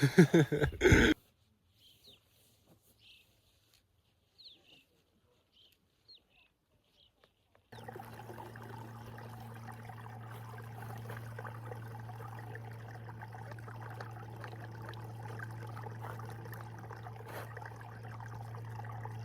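A few faint high chirps over near silence. Then, about eight seconds in, a steady hissing rush with a low hum starts abruptly: a backpacking stove burner running to heat breakfast water.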